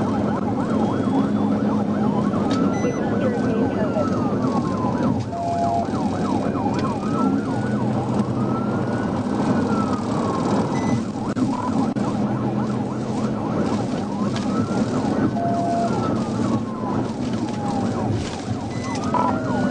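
Police car siren sounding a wail, its pitch slowly rising and falling about every six seconds, over steady engine and road noise from the pursuing cruiser.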